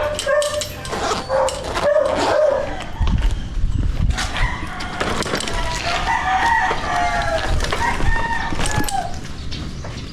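Roosters crowing: one crow in the first couple of seconds, then a longer stretch of crowing from about four seconds in.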